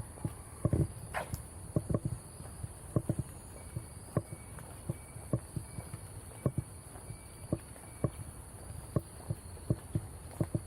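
Footsteps walking at an unhurried pace along a park path, with a steady high-pitched drone of insects behind them. A brief rising call comes about a second in.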